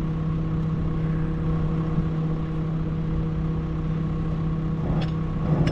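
A vehicle engine running at a steady speed, a constant even hum that does not rise or fall.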